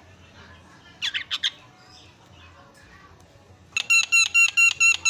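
Javan myna calling: a quick burst of about four harsh notes, then near the end a fast run of about eight loud, evenly repeated squawking notes.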